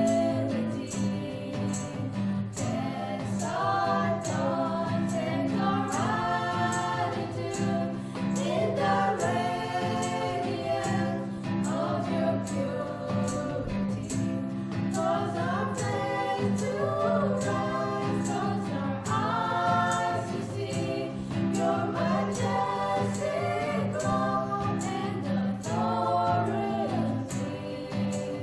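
Voices singing a church song with instrumental accompaniment and a steady beat of about two a second.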